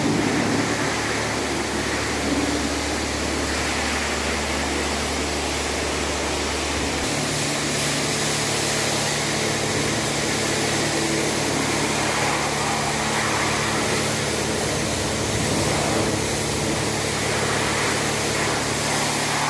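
Steady spraying hiss of car-wash equipment working on an engine bay, over the hum of a machine that shifts to a higher pitch about seven seconds in.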